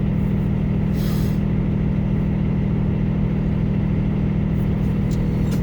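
Semi truck's diesel engine idling with a steady low hum, and a short hiss about a second in.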